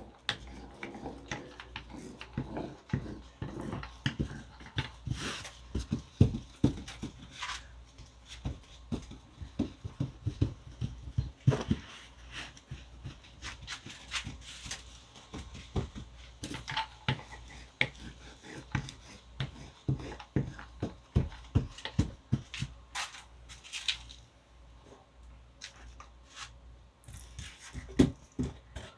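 Irregular knocks, taps and sticky squelches of glue-soaked burlap being pressed and rolled onto a styrofoam hull by hand and with a roller.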